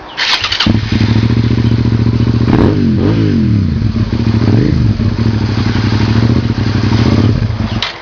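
Motorcycle engine starting up and idling steadily, with two quick revs about three seconds in, then shut off just before the end.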